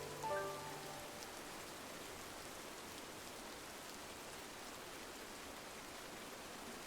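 Steady rain falling against a window, an even hiss of drops. A few soft held musical notes fade out about a second in.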